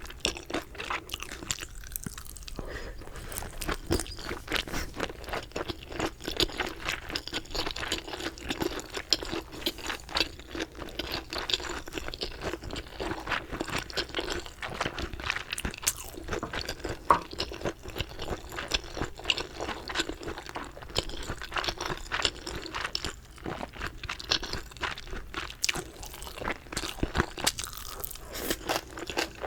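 Crunchy chicken being bitten and chewed close to the microphone, with rapid, irregular crunches running on without a break.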